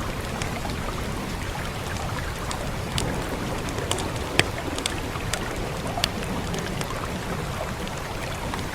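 Steady rain hiss with a low rumble under it and a fire crackling over it: sharp pops scattered through, the loudest about four and a half seconds in.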